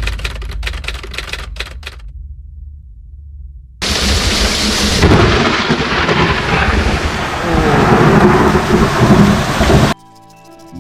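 Thunderstorm: thunder rumbling low with sharp crackles for the first two seconds, then a dull rumble. About four seconds in, heavy rain starts pouring loudly and keeps on for about six seconds.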